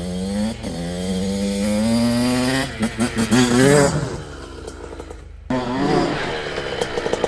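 Dirt bike engine accelerating hard, its pitch rising steadily for the first two and a half seconds, then a run of quick throttle blips and a drop. After an abrupt cut about five and a half seconds in, it revs up again.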